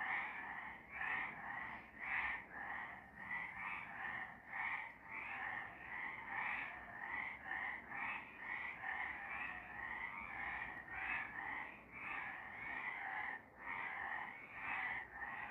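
A chorus of several frogs croaking: short calls overlapping and following one another without pause, several a second.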